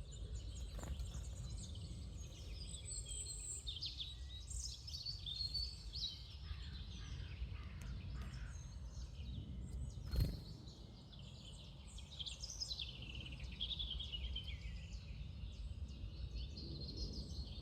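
Small birds chirping and singing over a steady low rumble of outdoor background noise, with a single sharp knock about ten seconds in.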